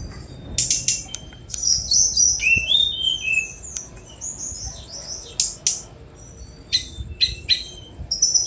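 Tledekan gunung, a small Asian jungle flycatcher, singing a fast, varied song of high chirps, short sliding whistles and sharp clicks, delivered in several bursts with brief pauses.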